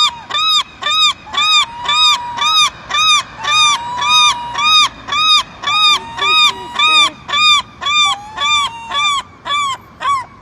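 Gulls calling: a fast, even run of loud, ringing repeated notes, about two and a half a second, with longer, lower drawn-out notes in between several times.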